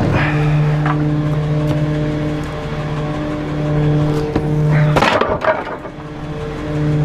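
Trash truck's engine running at raised speed to drive the hydraulic packer, a steady hum, with a loud crunch of bulky items being crushed about five seconds in.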